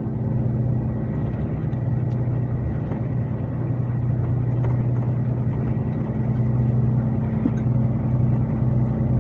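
Scania K370C coach's five-cylinder diesel heard from inside the passenger cabin, running steadily at an even speed with a constant low drone.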